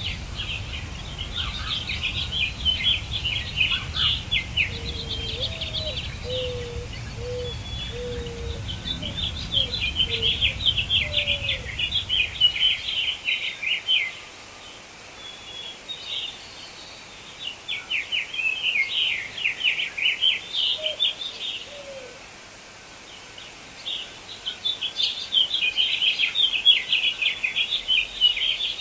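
Songbirds singing in phrases of rapid, high chirps a few seconds long, with short pauses between. A few lower, shorter call notes repeat in the first third. A low rumble under the song stops about halfway through.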